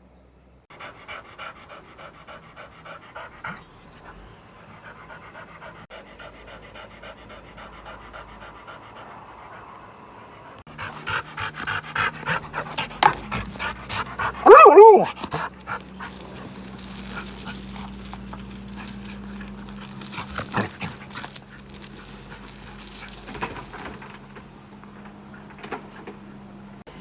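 A dog panting in quick, even breaths, louder in the second half, with one loud rising and falling cry about fifteen seconds in.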